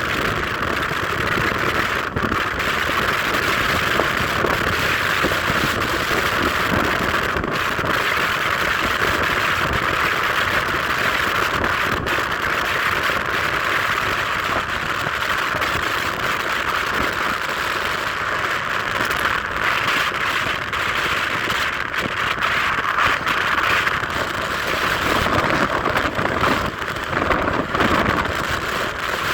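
Car on the move: a steady rush of road and wind noise with no change in pace.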